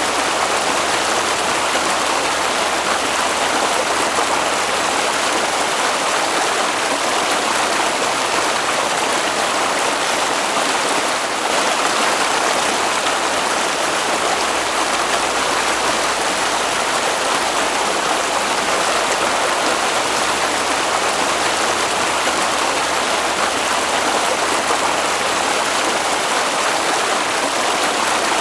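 Water flowing in a stream, a steady even rush that goes on without change.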